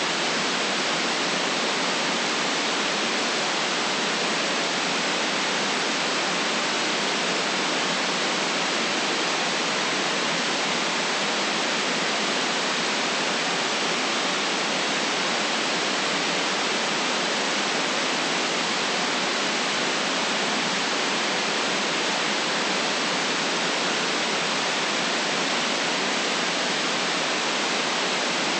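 Steady white noise: an even, unchanging hiss with no deep bass and no top treble, with no waves, drips or other events in it.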